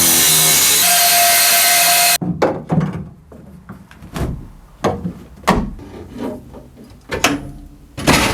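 A power saw running loud and steady, cutting off abruptly about two seconds in, followed by a series of separate rasping sawing strokes, with the cut almost through.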